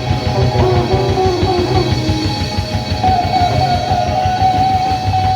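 Live band playing a slow blues: a lead guitar line over drums and bass, holding one long, slightly wavering note from about three seconds in.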